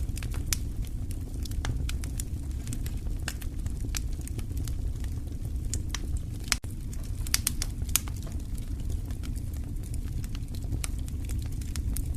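Wood fire crackling in a fireplace: irregular sharp pops and snaps over a steady low rumble, with a brief flurry of louder pops a little past halfway.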